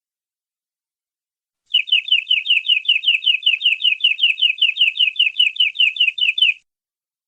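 Domestic canary singing one rapid trill of identical falling notes, about six a second, starting nearly two seconds in and lasting about five seconds before stopping abruptly.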